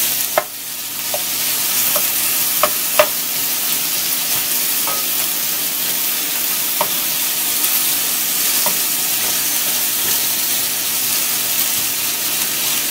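Sliced jalapeños and carrot sticks sizzling in hot oil in a pan as a wooden spoon stirs them. There are occasional sharp clicks, most of them in the first three seconds.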